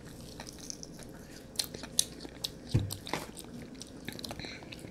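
People chewing sugar-coated marshmallow Peeps: scattered soft mouth clicks and smacks, with one dull thump nearly three seconds in.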